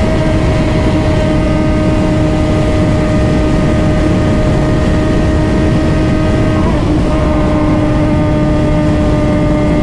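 Suzuki GSX-R600's inline-four engine running at a steady pitch while riding, under heavy wind rushing over the microphone; the engine note breaks briefly about two-thirds through and settles back slightly lower.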